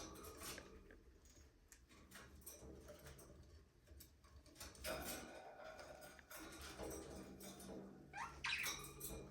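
Budgerigars softly chirping and chattering in short, scattered calls, with one rising call near the end.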